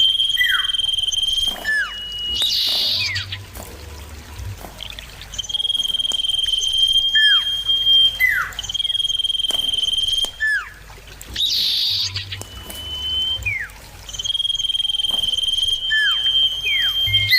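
Common iora (cipoh) singing: long, steady, clear whistles held for a second or two, interspersed with short downward-slurred notes, repeated several times.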